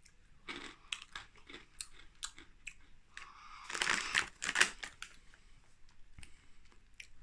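Crunchy chewing of hard-shelled pretzel pieces, a run of short crunches, with a louder rustle of the snack packet in the middle.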